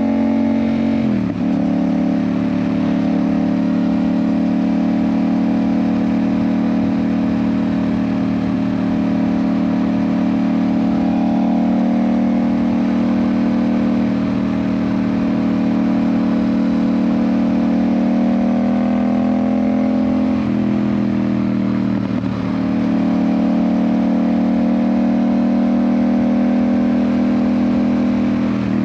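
Yamaha MT-07's parallel-twin engine, fitted with an Ixil aftermarket exhaust, running steadily under way. Its pitch climbs and falls slowly, with brief drops in pitch and level about a second in and twice about two-thirds of the way through.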